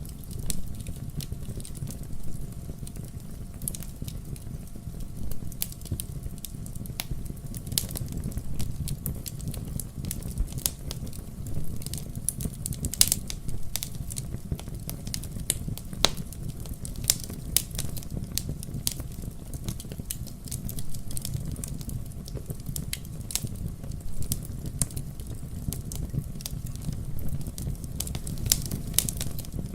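Wood fire burning in a fireplace: a steady low rumble of flames with sharp, irregular crackles and pops throughout.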